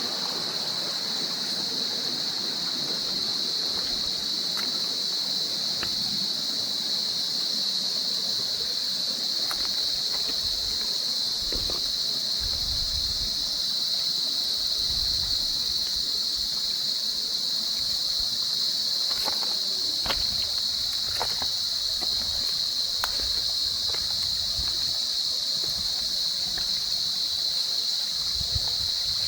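Stream water flowing and splashing between rocks, with a steady high-pitched hiss over it throughout and a few faint scattered clicks.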